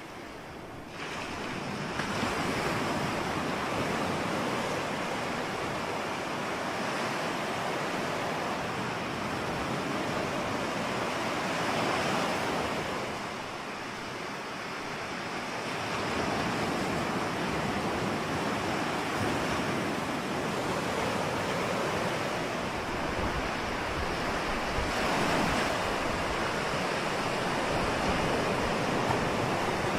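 Ocean surf: waves breaking and washing in a continuous rush that swells and ebbs, easing off for a few seconds midway before building again. A deeper rumble comes in underneath near the end.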